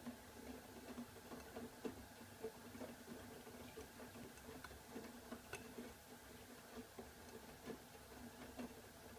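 AEG Öko-Lavamat washing machine running quietly early in a hot wash: a faint steady hum with light ticks about twice a second.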